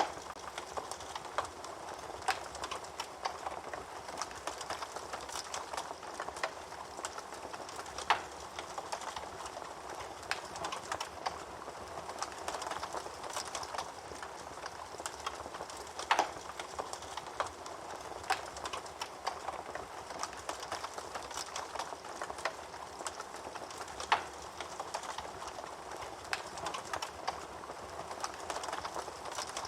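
Wood fire in a fireplace crackling steadily, with many small snaps and a few louder pops.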